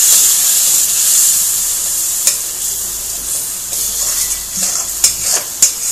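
Spiced onion-garlic-ginger masala paste sizzling in hot oil in a kadai just after a little water is added. The sizzle is loudest at first and slowly dies down. From about two seconds in, a spatula stirs and scrapes the pan, with a few sharp clicks against the metal.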